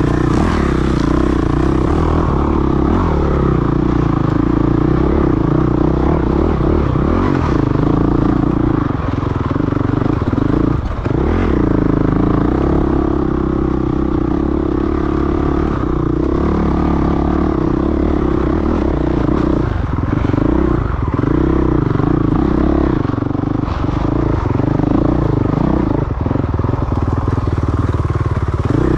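Off-road dirt bike engine running hard under throttle, holding a steady pitch with several brief dips in engine speed.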